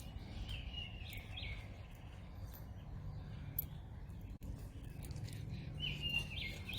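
A songbird singing two short whistled phrases, one about half a second in and another near the end, over a steady low rumble of wind.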